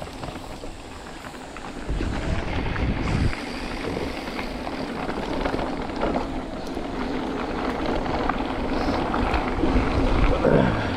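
Wind buffeting the microphone: a broad rushing noise that slowly grows louder, with heavy low gusts about two seconds in and again near the end.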